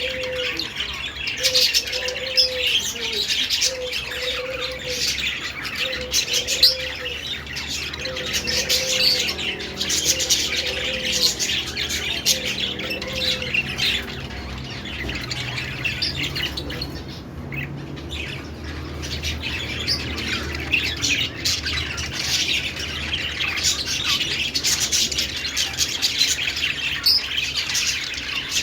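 Budgerigars warbling and chattering: a continuous stream of fast chirps and squawky notes. Through the first half a short, lower note repeats about once a second.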